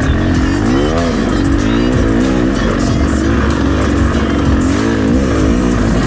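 Reiju MR300 dirt bike engine riding off-road, its revs rising and falling quickly again and again with throttle changes.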